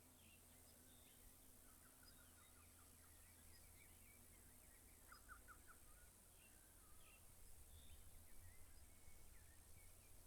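Faint birdsong from several birds, short chirps and calls scattered throughout, with a quick run of four or five repeated notes about five seconds in, over a low steady rumble.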